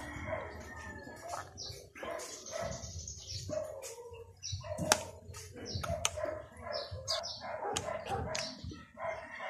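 Close-up eating sounds: chewing and lip-smacking with many small clicks, the sharpest about five seconds in. Repeated short animal calls sound in the background.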